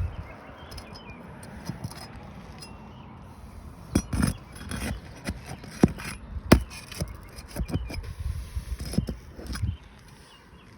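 A metal pry bar scraping and knocking under asphalt roof shingles as sealed tabs are broken loose and roofing nails are pried out, with several sharp clicks and knocks over the scraping.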